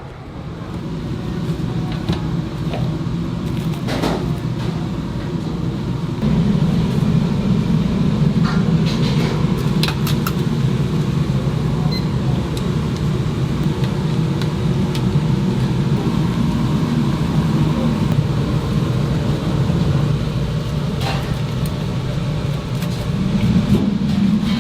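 A steady low mechanical rumble that swells about six seconds in, with a few sharp clicks here and there.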